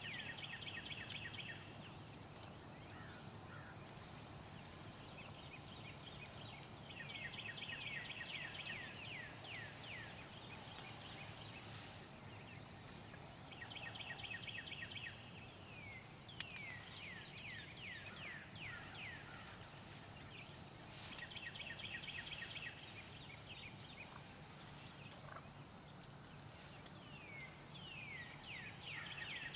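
An insect trills in one high, steady tone. It pulses on and off in short bursts for the first dozen seconds, then runs unbroken. Over it, a songbird sings short phrases of quick falling notes every few seconds.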